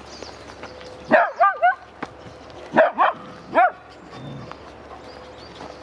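A dog barking: a quick run of four or five barks about a second in, then three more single barks a little later.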